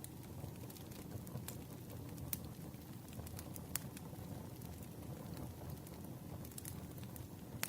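Campfire burning: a low, steady rumble of flames with scattered sharp crackles and pops at irregular moments.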